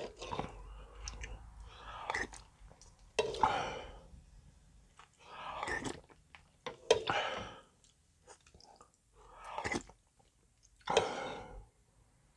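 Close-miked mouth sounds of someone eating dumpling soup: chewing, in short separate bursts every second or two.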